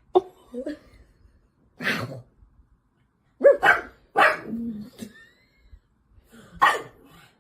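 A dog barking: several short, separate barks with pauses between them.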